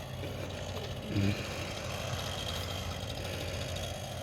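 Chainsaw engine idling steadily, a small two-stroke drone at an even level, with the saw not yet cutting.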